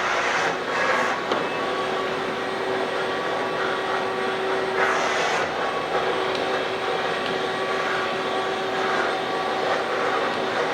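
Electric floor-cleaning machine running steadily on carpet, a loud motor whir with airy hiss and a faint steady tone, shifting briefly about half a second in and again about five seconds in.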